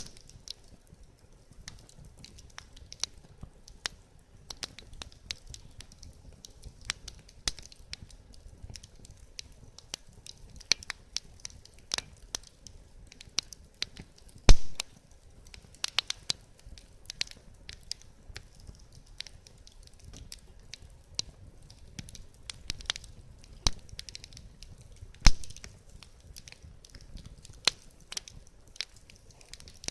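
Wood fire crackling, with a steady scatter of small irregular snaps. Two much louder pops come about midway and again some ten seconds later.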